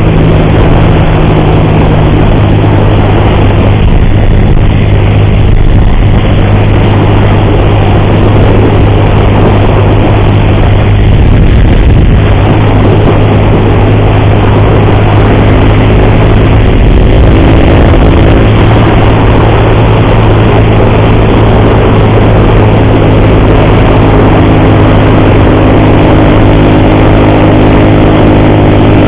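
A motorcycle engine runs at a steady cruise under loud wind rush, its pitch shifting a little about halfway through and again near the end. The rider says the engine has an ugly noise in the cam chain that grows louder the more he rides.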